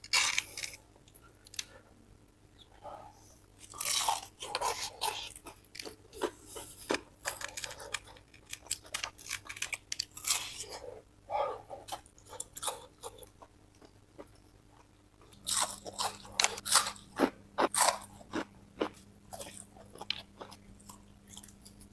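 Crispy fried chicken being bitten and chewed: sharp crunches come in irregular clusters, with quieter chewing between them.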